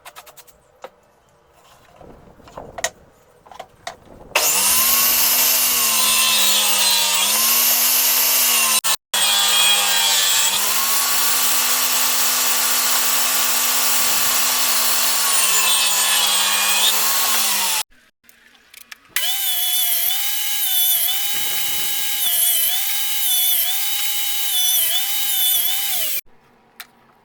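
Electric power tool working wood in two long runs, after a few light knocks. Its motor pitch dips again and again as it bears into the work. The motor in the second run has a higher pitch.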